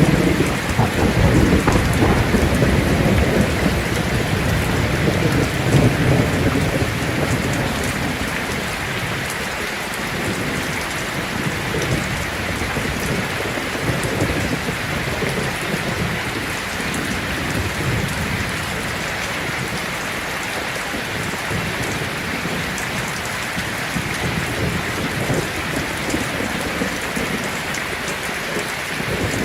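Heavy rain falling on a tin roof, a steady hiss throughout. A low thunder rumble fills the first several seconds and fades away.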